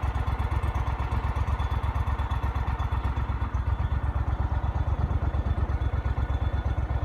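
Outboard motor running steadily at low speed, an even, rapid pulse with no change in pitch.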